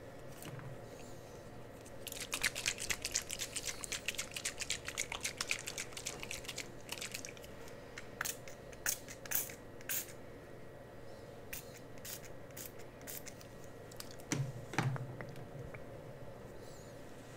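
Close-miked ASMR trigger sounds: a dense run of rapid, crisp clicks and crackles lasting about five seconds, then scattered single clicks, with a couple of soft thumps near the end.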